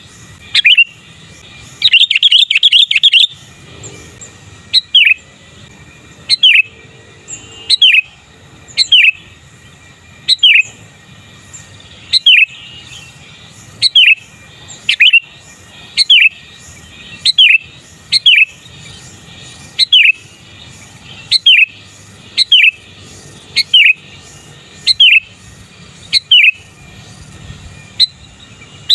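Sooty-headed bulbul calling over and over: a short falling note roughly every second and a half, with a quick run of several notes about two seconds in.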